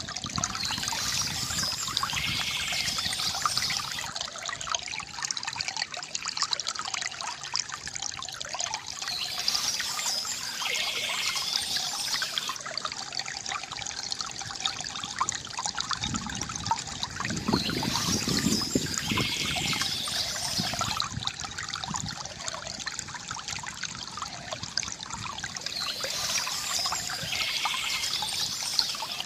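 Water from a bamboo fountain trickling and splashing steadily into a basin, with a brighter splashing swell that comes back about every eight seconds.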